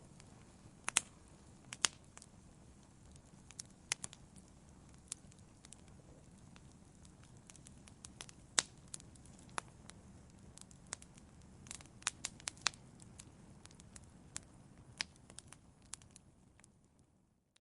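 Wood fire in a fireplace crackling, with irregular sharp pops and snaps over a low steady hiss and rumble. It fades out to silence near the end.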